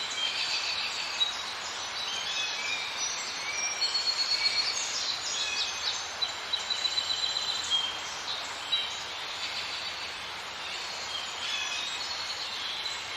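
A wildlife ambience of many short, high chirps and whistles from several animals at once, over a steady hiss.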